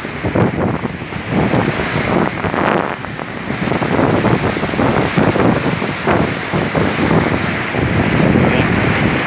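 Loud rushing water, with wind buffeting the microphone in uneven gusts.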